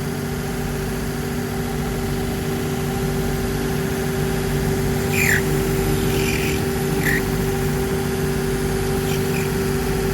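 A cobbler's workshop machine motor running with a steady hum. A few short squeaky scrapes come about halfway through and again near the end.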